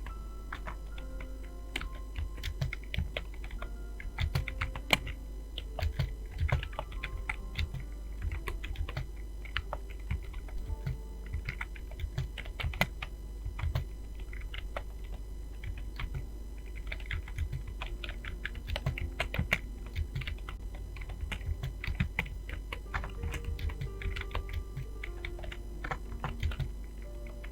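Fast typing on a computer keyboard: a dense, irregular run of key clicks with brief pauses, over a steady low hum.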